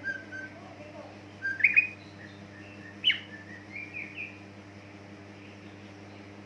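Greater green leafbird (cucak ijo) singing short whistled and chirping phrases: a rising whistle about one and a half seconds in, a sharp note about three seconds in, then a few quicker notes that stop about four and a half seconds in. A steady low hum runs underneath.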